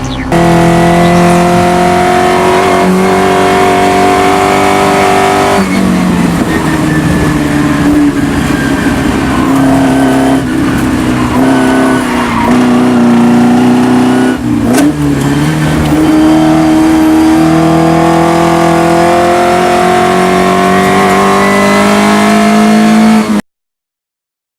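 Alfa Romeo 116 GTV race car's 2.0 twin-cam four-cylinder on Weber 45 carburettors, running hard at high revs: the pitch climbs, drops back at each gear change, and climbs again, several times. It cuts off abruptly near the end.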